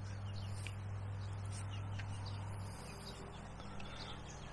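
Faint outdoor bird chirps over a steady low hum that cuts off a little over halfway through.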